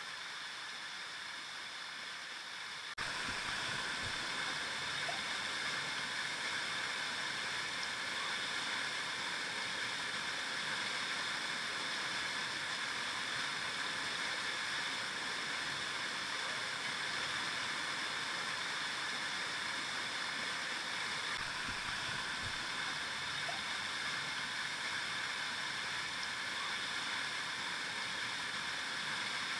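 River water flowing: a steady rushing sound. About three seconds in it switches abruptly to a louder, fuller rush.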